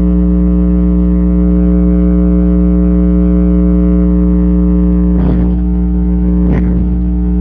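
Loud, steady electrical hum and buzz with many overtones, unchanging throughout, picked up by a cheap earbud's built-in microphone: the recording is dominated by interference noise. Two short knocks or clicks break through about five and six and a half seconds in.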